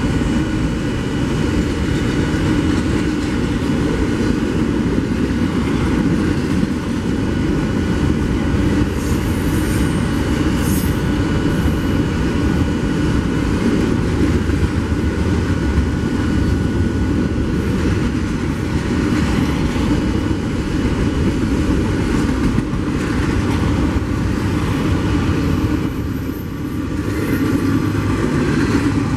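A train rolling past on the rails, a loud, steady rumble of cars and wheels.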